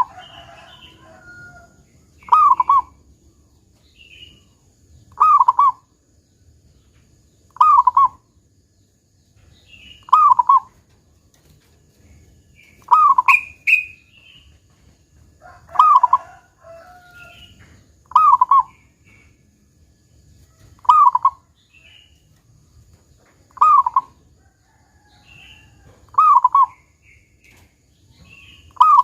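Zebra dove (perkutut) singing a short double coo with a big 'kung' voice, repeated about every two and a half seconds, about ten times, with faint higher chirps in between.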